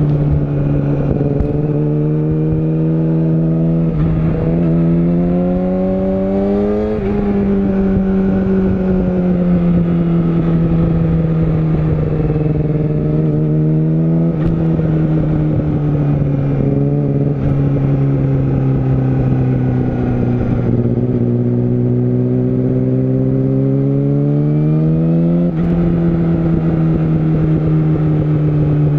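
Yamaha YZF-R6 (RJ27) inline-four engine heard while riding, its note rising and falling with the throttle: it climbs to a peak about seven seconds in, then falls away slowly as the bike rolls off, with quick upward jumps in pitch at gear changes around halfway and near the end.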